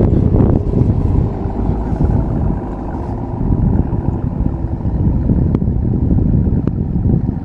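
Off-road vehicle running and driving, a heavy low rumble that rises and falls, with a couple of sharp clicks near the end.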